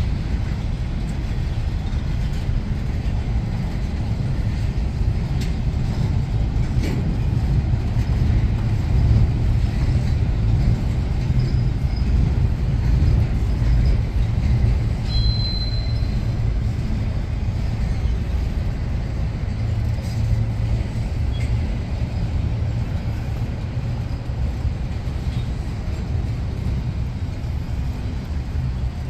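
Double-stack intermodal well cars of a freight train rolling past: a steady low rumble of steel wheels on rail, with a few light clicks and a brief high squeal about halfway through.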